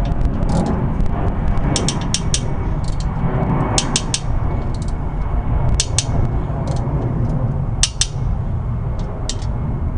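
Scattered sharp clicks and clinks of hand tools on motorcycle exhaust fittings, some in quick runs of two or three, over a steady low rumble of wind on the microphone.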